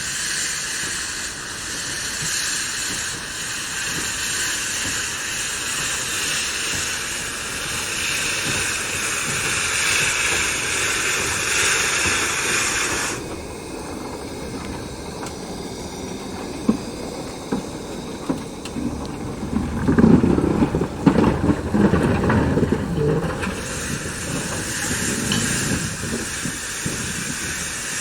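Steam locomotive hissing steadily with escaping steam. The hiss cuts off suddenly about halfway through; a few seconds later comes a louder low rumble with sharp knocks, and the hiss starts again near the end.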